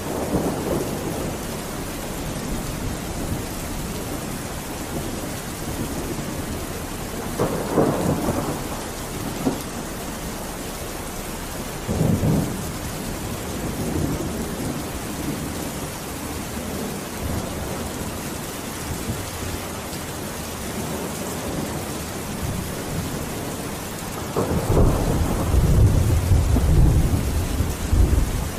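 Steady heavy rain hiss, with rumbles of thunder: a few short rolls through the middle and a longer, louder roll near the end. Mixed as 8D audio that pans around the listener.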